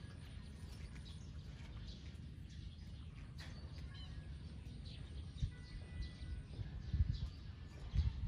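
Faint bird chirps over a steady low rumble, with a few low thumps in the last three seconds.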